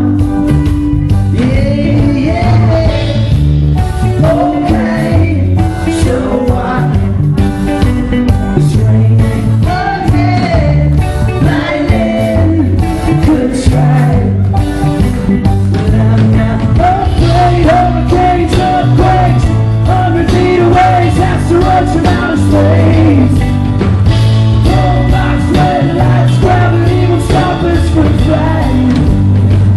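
Live pop-rock band playing loudly: drum kit, bass and guitars, with a melody line that sounds sung but carries no words the transcript could catch.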